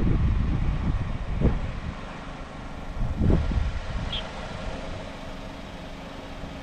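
Strong wind buffeting the microphone in irregular gusts, a low rumble that swells around the start and again about three seconds in.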